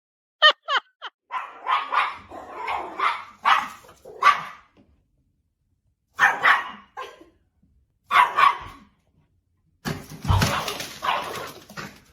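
A dog barking repeatedly in short runs with pauses, starting with a few brief high whines. Near the end there is a noisier stretch with a low thump.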